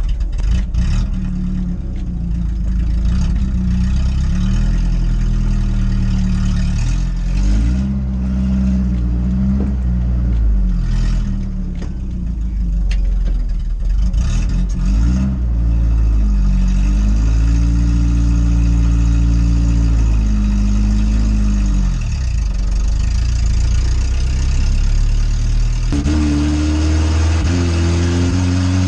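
Old Volvo with a straight-piped exhaust driving, its engine note repeatedly rising and then dropping as it is worked through the gears. The sound changes abruptly near the end.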